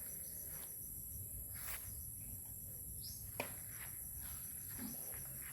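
Forest insects, crickets among them, keeping up a steady high-pitched drone with a fast, even pulsing chirp beneath it. A bird gives one short falling call about three seconds in, and there is a faint tap about half a second later.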